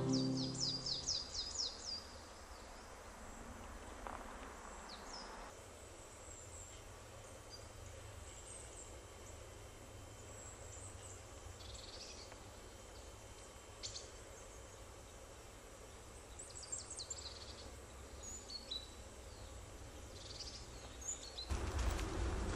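Faint outdoor ambience of a woodland bog with small birds chirping: a quick run of high falling chirps at the start, then scattered single calls. Near the end louder footsteps on the leaf-strewn path begin.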